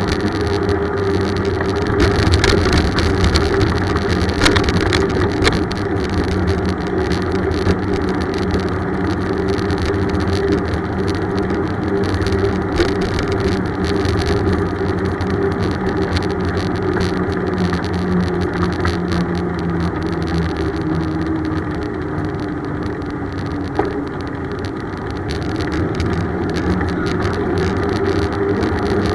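Steady road and wind noise from a moving bicycle, with the hum of passing motor traffic; a vehicle's engine tone slides down in pitch about two-thirds of the way through.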